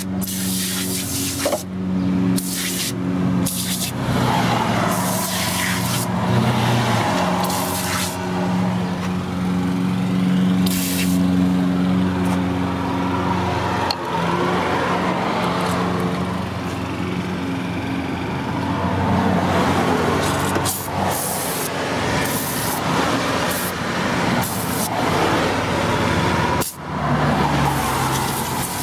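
Saturn car engine idling steadily, with aerosol engine-degreaser cans hissing over it in repeated short sprays of a second or two.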